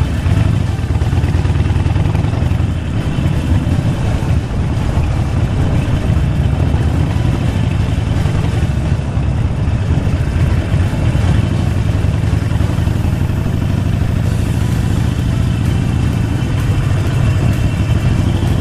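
Harley-Davidson Sportster Forty-Eight's air-cooled V-twin running steadily under way, with wind and road noise over it.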